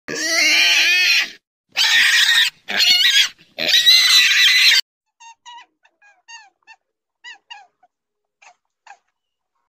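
Pig squealing: four loud, shrill squeals over the first five seconds, followed by a string of faint, short, high calls.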